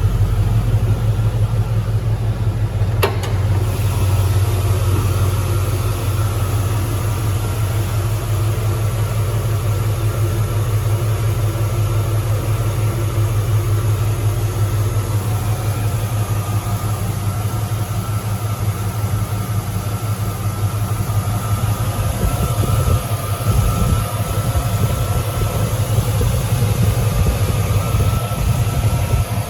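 2002 Chevrolet Silverado's engine idling steadily, with a single sharp click about three seconds in.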